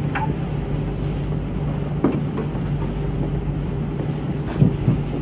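Steady low machinery hum of a ship's interior, with a few faint knocks about two seconds in and again near the end.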